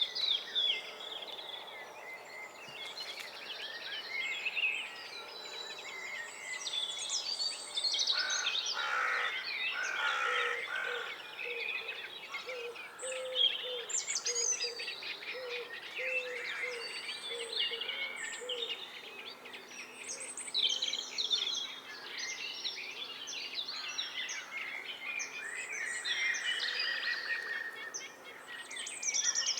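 Several songbirds singing at once, a dense mix of overlapping chirps and warbled phrases. About eight seconds in, a run of lower repeated notes joins in for several seconds.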